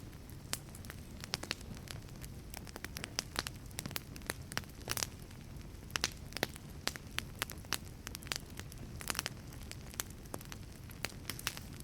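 Wood fire burning in a wood-fired pizza oven: many sharp, irregular crackles and pops over a steady low rumble of flame.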